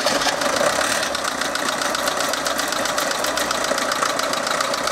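Lada Niva four-cylinder engine idling with a fast, even ticking from the valve gear: the knock of a faulty hydraulic lash adjuster (valve lifter).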